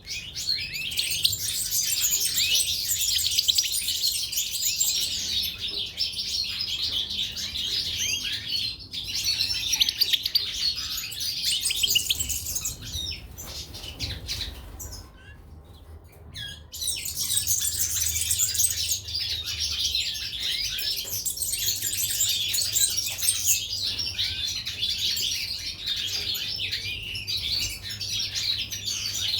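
Caged goldfinches and canaries singing in a dense, rapid, high twittering. The song breaks off for a couple of seconds about halfway through, then resumes.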